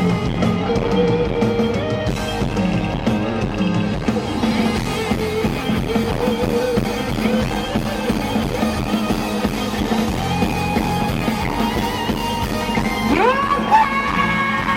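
Live rock band playing a song's instrumental intro: electric guitar and drum kit over bass, loud and steady. Near the end a high held yell rises in over the band.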